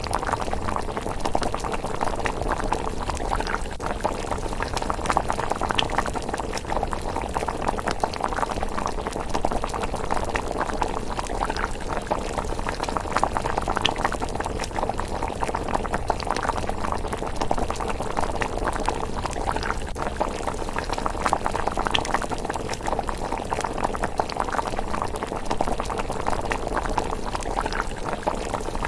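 Thick miso rice porridge simmering in a pot, bubbling steadily with a constant patter of small pops.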